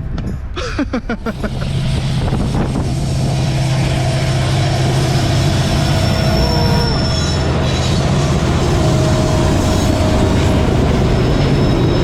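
Train running past on the track, a loud steady rumble that builds over the first couple of seconds, with thin high wheel squeals coming and going.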